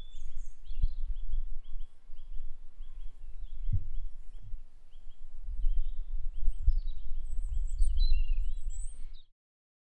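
Garden birdsong: a bird repeating a short chirp several times a second, with other higher calls, over a steady low rumble, and a soft knock about four seconds in. Everything cuts off abruptly near the end.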